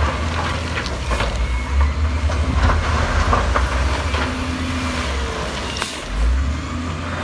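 Diesel engine of heavy earthmoving machinery running with a steady low drone, with scattered short metallic clanks and knocks.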